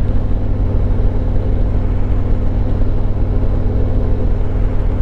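Harley-Davidson Road Glide Limited's Milwaukee-Eight 114 V-twin engine running steadily while riding, heard from the saddle with road and wind noise.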